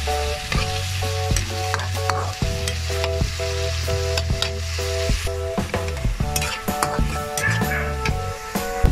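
Ground pork with onion and garlic sizzling in oil in a steel wok while a metal spatula scrapes and stirs it, at the browning stage of a sauté. Background music with a steady bass line plays along.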